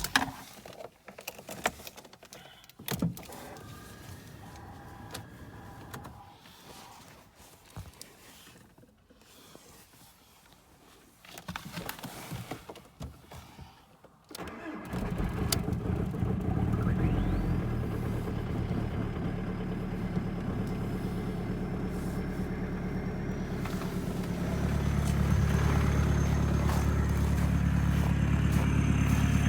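Seat Leon 1.9 TDI four-cylinder turbo-diesel started from cold at −13 °C through an open exhaust: after some clicks in the first half, it cranks and fires about halfway through and settles into a steady cold idle, getting louder and deeper about ten seconds later.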